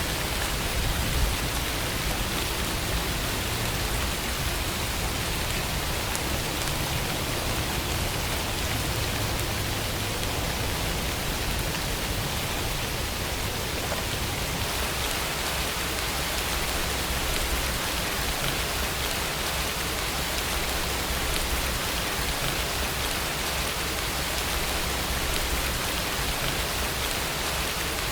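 Steady rainfall: an even hiss of rain with faint drop patter.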